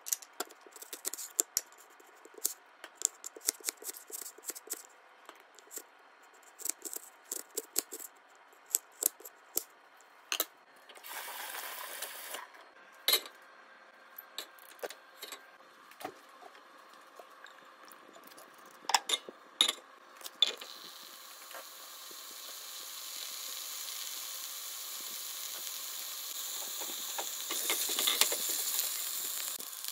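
Irregular knife taps on a plastic cutting board, then a few knocks of a pan and utensils on the stove. From about two-thirds of the way through, hot oil sizzles in a frying pan, steadily louder, and jumps louder near the end as potato chunks are fried and stirred with a spatula.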